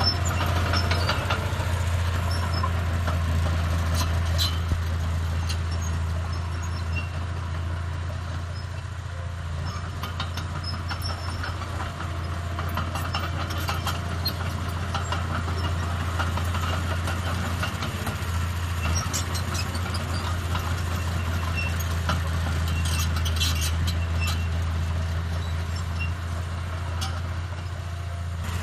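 Diesel engine of heavy earthmoving machinery running steadily with a deep, even drone, with a few light clinks, most of them about 23 seconds in.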